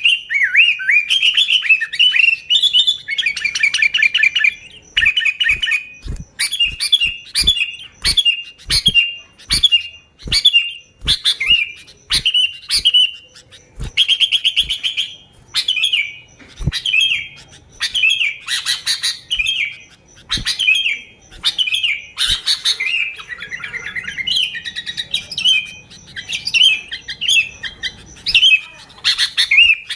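Sooty-headed bulbul singing lively, chattering song: short bubbling phrases, one after another with brief gaps, and sharp clicks between many of them.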